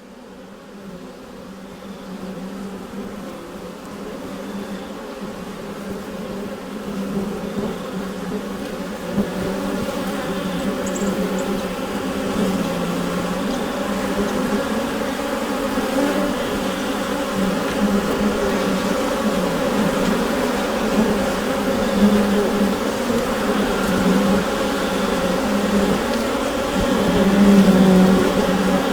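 Dense, steady hum of many bees buzzing together inside a beehive, fading in over the first several seconds and then holding.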